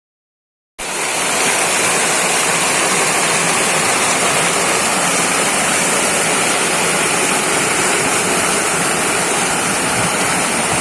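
Loud, steady rushing of a waterfall and river pouring over rocks, starting suddenly about a second in.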